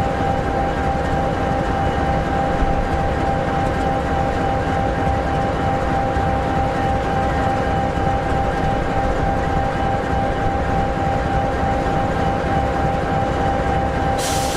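EMD 16-710G3B 16-cylinder two-stroke turbocharged diesel in an SD60E locomotive, idling steadily: an even low rumble with a constant whine over it. A hiss with a falling high tone starts right at the end.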